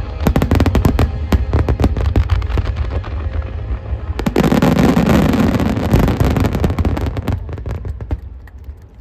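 Aerial fireworks bursting in rapid succession with many sharp cracks. About four seconds in they build to a dense crackling wash, which dies away near the end. Music plays underneath.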